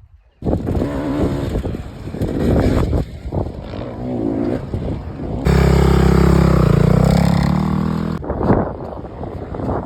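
Dirt bike engines running and revving, heard in several abruptly cut shots, with a loud, steady engine note in the middle whose pitch dips and then climbs again.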